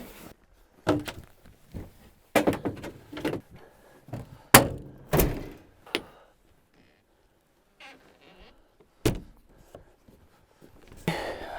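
A string of irregular thunks and knocks, several spread over the stretch with quiet gaps between, from gear being handled and shut.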